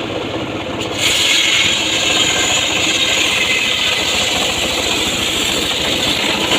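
Engine-driven homemade circular sawmill running steadily, its blade cutting a mahogany log with a high hissing whine. The cutting noise dips at the start and picks up again about a second in.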